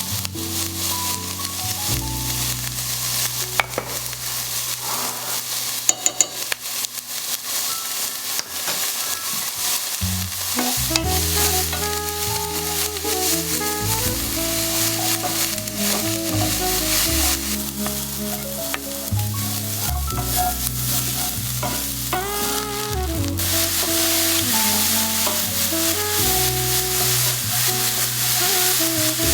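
Food sizzling in a hot pan as it is stirred, with a few sharp utensil knocks early on, over soft background music.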